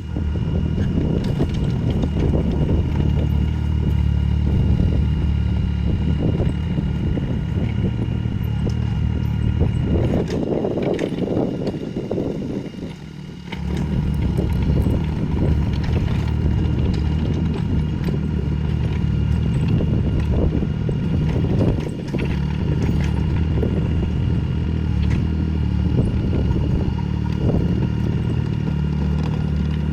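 Mini excavator's diesel engine running steadily under work, with scattered clatter of crushed stone being spread. The engine sound drops away for a couple of seconds about halfway through, then picks up again.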